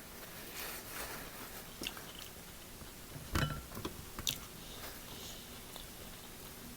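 A person chewing food close to the microphone, quietly, with a few short mouth clicks and smacks, the loudest about three and a half seconds in.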